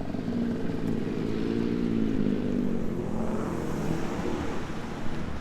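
A vehicle engine running steadily, its pitch rising a little and falling back around the middle.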